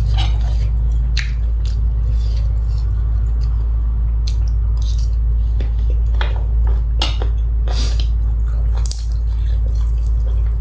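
Close-up eating sounds: a person chewing, with scattered short clicks and wet smacks, over a steady low hum.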